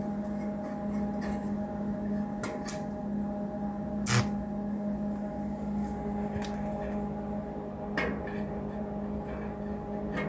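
Stick welding setup humming steadily, with a few short sharp clicks and taps as a beginner tries to strike the arc with the electrode.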